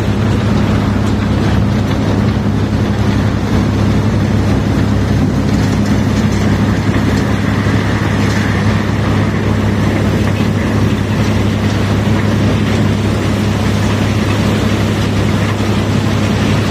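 Heavy diesel engine of the unloading machinery running steadily: a deep, even drone with a constant rumble over it.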